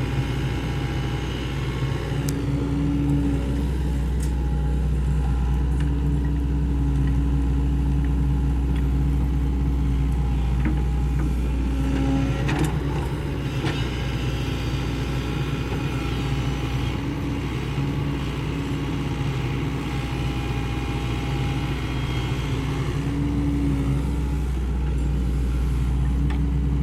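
Sany SY75C excavator's diesel engine running steadily under working load. A higher steady tone comes and goes several times, and there are a few sharp knocks in the middle.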